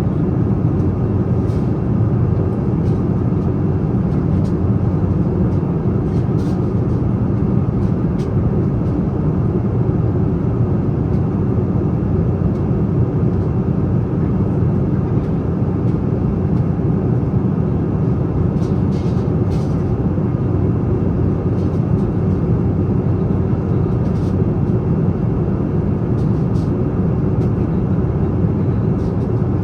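Steady low rumble inside the cabin of a Boeing 777-300, from its Rolls-Royce Trent 800 engines and the airflow, holding level throughout, with a few faint ticks.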